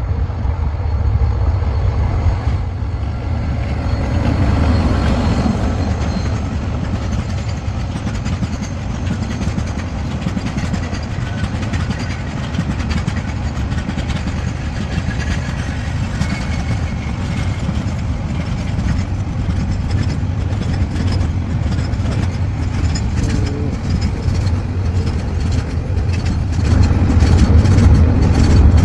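Long freight train rolling past: a steady heavy low rumble with rapid clicking and clatter from the wagons' wheels on the rails, growing louder near the end.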